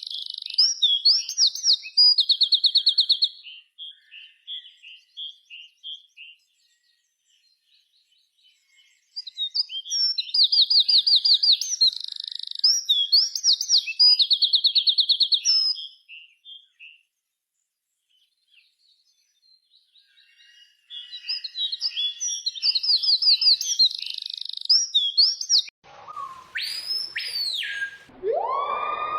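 A songbird singing the same high phrase of fast trills and chirps three times, with gaps of several seconds between. Near the end, a louder whistled tone glides up and falls back, followed by a lower sliding tone.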